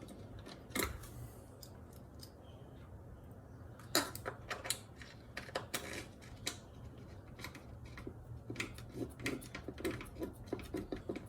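Hand tools and metal engine parts clicking and knocking a few times, then from about eight seconds in a run of quick, light ticks as bolts are worked by hand.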